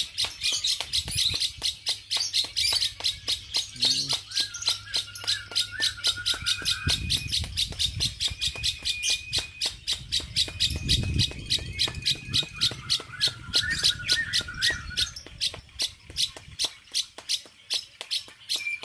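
Bird chirping: a steady, even run of short shrill chirps, about five a second, with a lower warbling call from another bird twice. A few low thuds in the middle.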